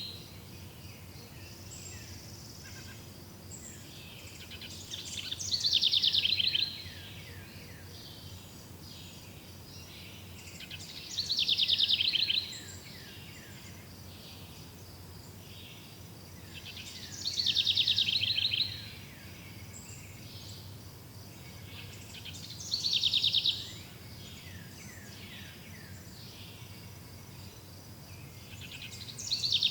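A songbird repeating a short, fast, descending trilled song about every six seconds, over faint steady insect chirring.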